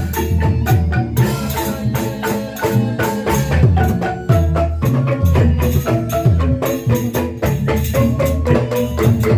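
Instrumental music from an ensemble of mallet-struck, xylophone-like percussion playing a fast, dense run of notes, with shaker-like rattling and a deep bass that swells about once a second.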